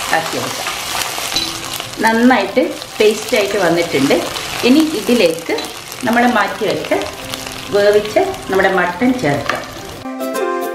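Onion, garlic, chillies and tomato paste sizzling in hot oil in a nonstick pan while a spatula stirs and scrapes across the pan in repeated strokes. Near the end it cuts suddenly to light instrumental music.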